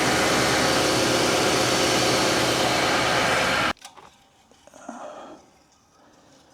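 2020 Nissan Titan's 5.6-litre V8 idling, a steady close-up running noise that cuts off suddenly a little over halfway through. Only faint handling sounds and a few small clicks follow.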